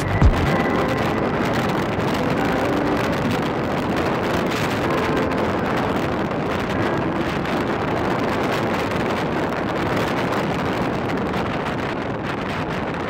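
Strong typhoon wind blowing steadily and rushing over the microphone.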